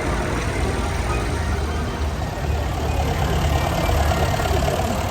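Vintage tractor engine running steadily with a low rumble, getting louder about halfway through.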